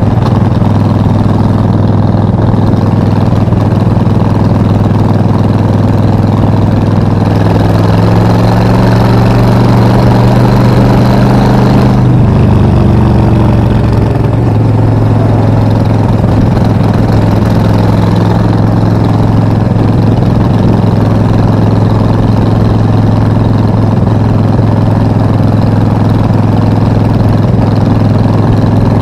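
Suzuki VS1400 Intruder's V-twin engine running steadily. Its note rises a little about seven seconds in, then drops abruptly about twelve seconds in before settling back to a steady beat.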